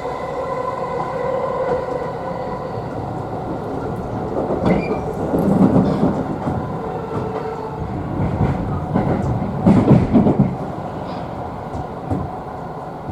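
Electric commuter train heard from inside the car while running, with a steady motor hum and two loud stretches of wheel clatter over rail joints or points, the second a little before ten seconds in.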